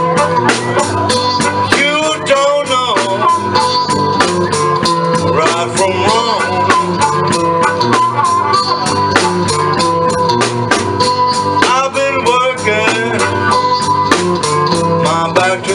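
Live blues band playing an instrumental passage: a guitar solo with bent notes over a steady drum-kit beat and a held keyboard tone.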